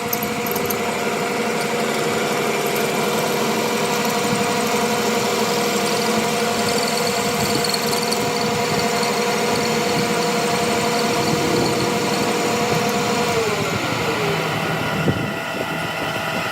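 A workshop machine's motor running steadily with a whine made of several steady tones. About thirteen seconds in, the pitch glides down as the machine slows.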